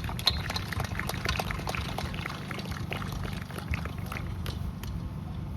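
Scattered applause from a small crowd: many separate claps that thin out near the end, over a low steady rumble.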